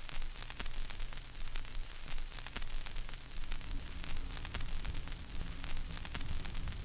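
Mountain bike rolling over a trail: a steady hiss of wind on the microphone, a low rumble and many irregular clicks and rattles from the bike.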